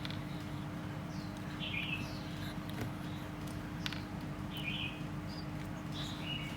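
Faint short chirps, a few of them spaced a couple of seconds apart, over a steady low hum and hiss.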